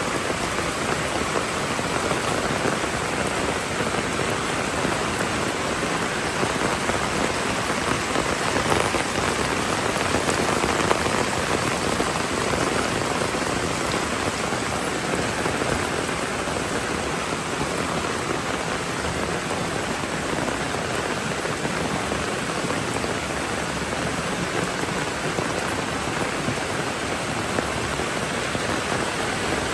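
Steady rainfall with an even, unbroken hiss of drops.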